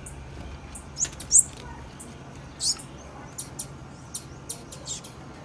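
Female blue-black grassquit (tiziu) giving short, high chip calls, about a dozen, spaced irregularly. The loudest comes about a second and a half in.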